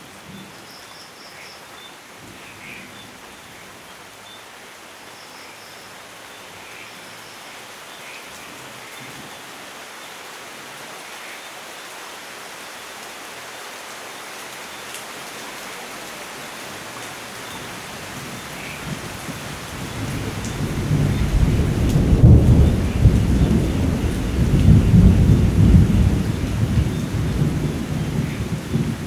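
Steady rainfall hissing and slowly growing louder, then a long, deep rumble of thunder rolls in about two-thirds of the way through and becomes the loudest sound. A few faint short chirps sound over the rain early on.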